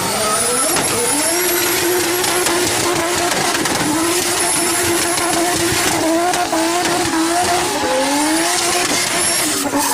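Car engine held at high revs, its pitch dipping and climbing again several times, with a thin high whine running above it.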